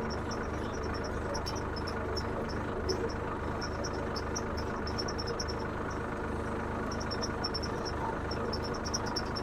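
Tractor engine running steadily in second gear under load, pulling row-marking tines through a field. Insects chirp in quick repeated pulses throughout.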